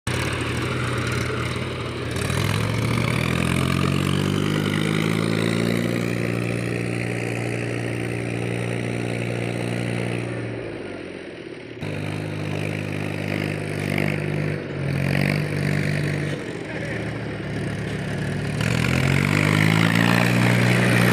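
Tractor engine revving under load, its pitch rising and holding in three pulls. It dips and picks up again sharply about halfway.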